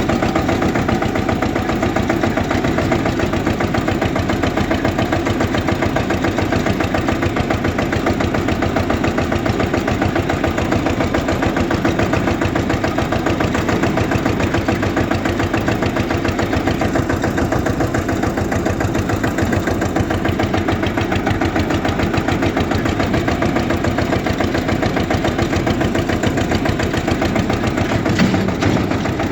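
Diesel engine of an Eicher tractor running steadily, with an even, rapid beat of firing pulses.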